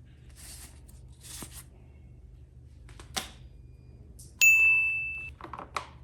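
Soft rustles and light clicks of toy packaging being handled. About four and a half seconds in comes a single bright ding that rings and fades over about a second, followed by a few more quick clicks.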